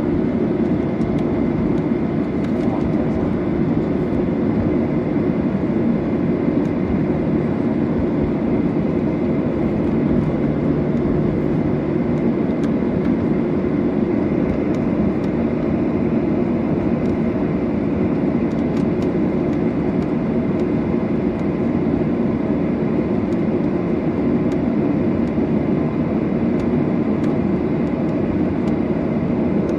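Steady cabin noise inside a Boeing 737-800 with its CFM56 turbofans running, an even low rumble that holds level throughout, with faint light ticks and rattles.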